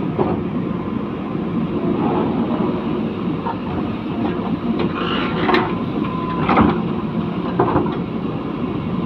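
JCB backhoe loader's diesel engine running steadily under hydraulic load while it works at tree roots, with a few sharp metallic clanks and a short squeal between about five and seven seconds in.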